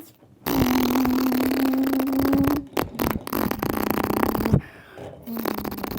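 A young boy imitating a car engine with his mouth: a raspy, sputtering buzz held at a steady pitch for about two seconds, then a slightly lower one for about two seconds, and a shorter burst near the end.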